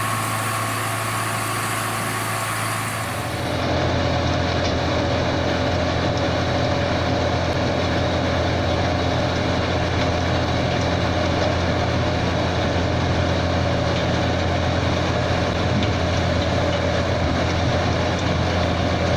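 Compost turner's engine running steadily under load, a continuous mechanical hum. About three seconds in it changes abruptly to a slightly louder, fuller running sound.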